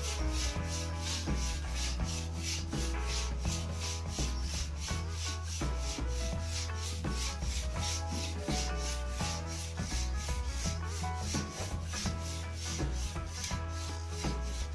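Sandpaper rubbed by hand along a wooden snooker cue shaft in quick, even back-and-forth strokes, about four or five a second, over a steady low hum; the sanding roughens the surface so paint will take.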